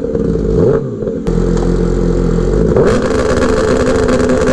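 Kawasaki motorcycle engine revved hard and held at high rpm on launch control, stuttering rapidly against the rev limiter. The revs dip and climb back twice.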